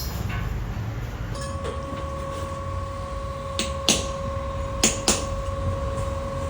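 Workshop work on an exhaust: four sharp metal knocks, two close pairs about a second apart, over a low rumble. A steady high whine comes in about a second in and holds.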